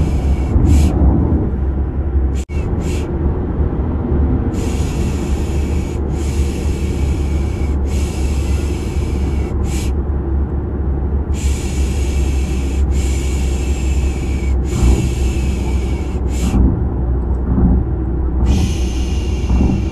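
Steady low rumble of a car's engine and road noise, overlaid with long hissing 'shh' shushes for soothing a baby. The shushes come in runs of two or three, each lasting about a second, with short pauses between the runs. The sound drops out briefly once early on.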